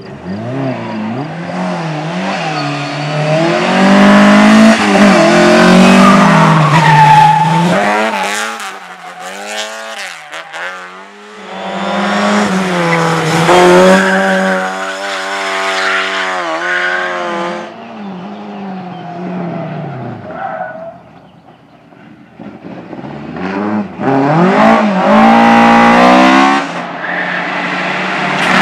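Rally car engine at full throttle on a sprint stage, revving up and down through gear changes, growing loud and fading again three times.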